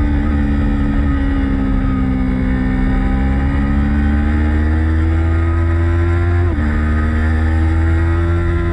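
Motorcycle engine running hard on a race track. Its pitch dips slowly and climbs again, then drops sharply about six and a half seconds in at an upshift before rising once more.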